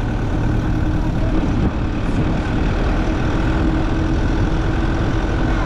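Steady engine and road noise heard from inside a moving car, with a constant low hum.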